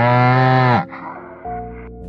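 A cow mooing: one long low moo that falls in pitch at the end and stops just under a second in.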